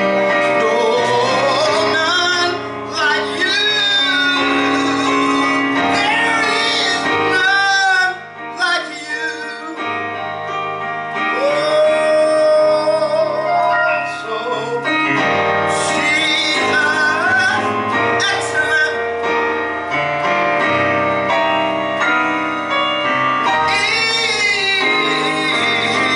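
Worship singing in church: female and male voices with wavering held notes over keyboard accompaniment.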